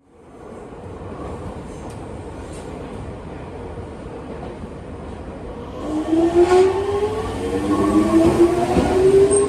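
Electric train running, its noise fading in, then from about six seconds in a rising whine from the traction motors as the train picks up speed.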